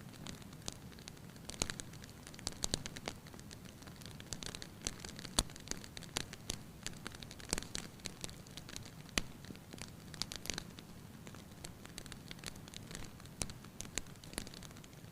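Wood fire in a fireplace crackling, with sharp irregular pops and snaps over a low steady rumble.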